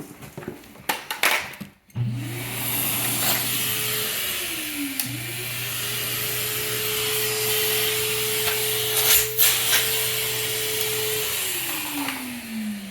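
Central vacuum power unit switched on from the hose handle's switch through the retractable hose's low-voltage contacts: a few handling clicks, then the motor starts up with a rising whine, dips in pitch briefly, runs steadily, and near the end is switched off and winds down with a falling pitch.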